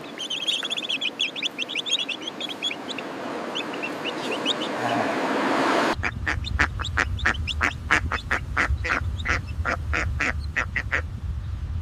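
Ducklings peeping in rapid high chirps, then a rushing noise that swells for a few seconds and cuts off abruptly halfway through. After it come rapid duck calls, about four a second, over a steady low rumble.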